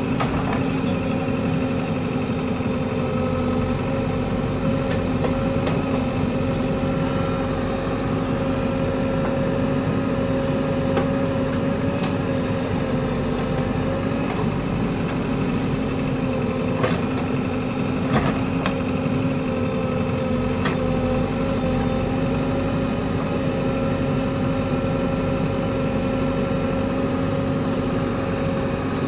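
Diesel engine of a construction machine running steadily at an even speed, with a few short knocks and clicks, the loudest about 18 seconds in.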